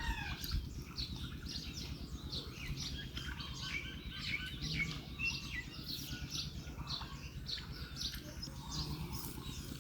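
Small birds chirping, many short quick chirps in close succession, over a steady low background rumble.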